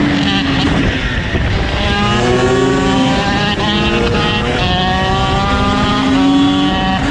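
KTM SX two-stroke supermoto engine revving hard, its pitch climbing and dropping several times as the bike accelerates and shifts.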